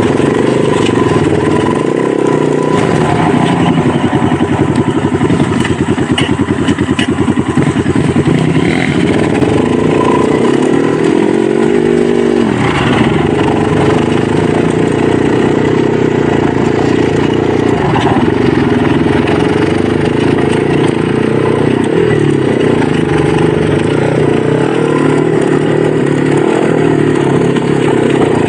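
Dirt bike engine running continuously under load, its revs rising and falling with throttle and gear changes, with a brief drop and climb in pitch about twelve seconds in.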